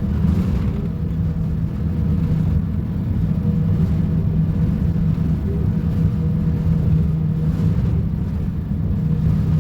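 Volvo B250RLE bus diesel engine running with a steady low rumble and an even engine tone.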